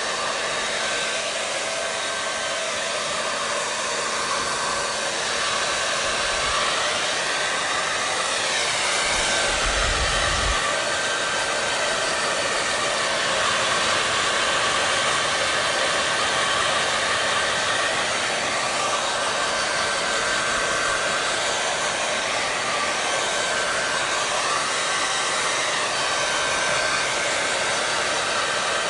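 Hair dryer running continuously: a steady rush of blown air with a faint steady whine, its tone wavering slightly now and then. A brief low bump comes about ten seconds in.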